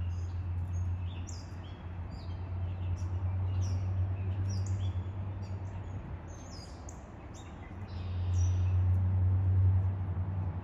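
Birds chirping with short, high calls throughout, over a low steady hum that swells near the end.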